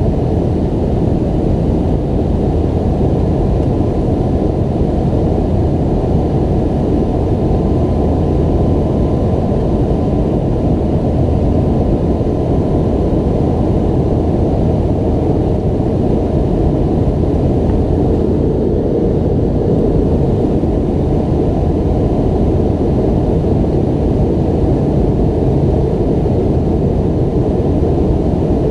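Steady cabin noise inside a McDonnell Douglas MD-90-30 airliner: its rear-mounted IAE V2500 turbofan engines running, heard as a constant low rush with a faint steady hum above it.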